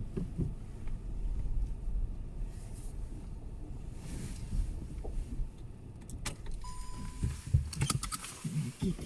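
Car cabin rumble, low and steady, heard from inside the car. About two-thirds of the way through comes a click and a short steady beep, followed near the end by several clicks and rattles.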